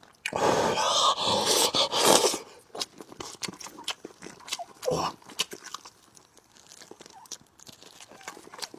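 Close-miked eating of a braised fish head: a loud, noisy stretch of mouth sounds lasting about two seconds near the start, then quieter chewing with many small clicks and one louder smack around the middle.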